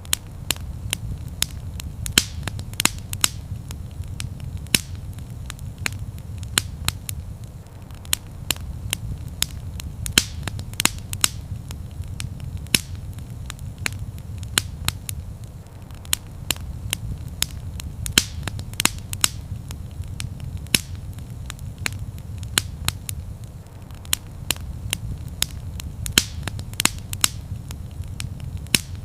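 Wood fire in a fireplace crackling: frequent sharp pops and snaps, several a second and irregular, over a steady low rumble of the burning fire.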